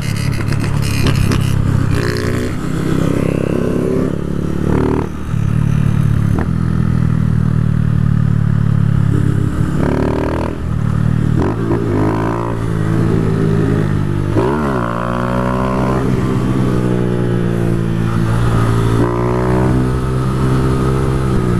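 Motorcycle engine running at riding speed, its pitch holding steady and then falling and rising several times with throttle and gear changes, with wind and road noise underneath.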